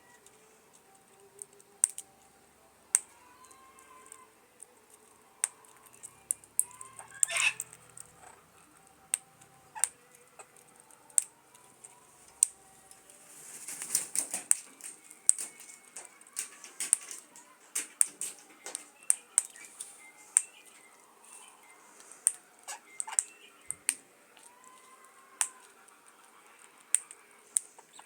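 A bird giving soft, short curved chirps, among many sharp irregular clicks and taps. A brief rustling noise comes about halfway through.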